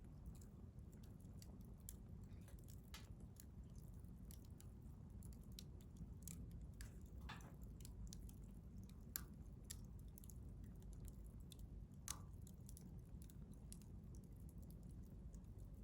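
Wood campfire crackling faintly: scattered small snaps and pops over a steady low rumble, with two sharper pops about nine and twelve seconds in.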